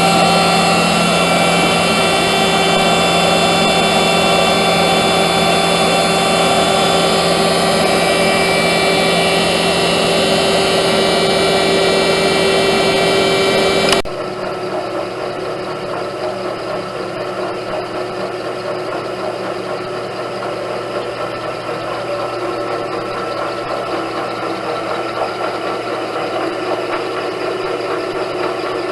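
Leifeld spinning lathe's 50 horsepower hydraulic pump unit running steadily, a hum with several high whining tones. About halfway through the sound cuts off abruptly to quieter, uneven machine noise.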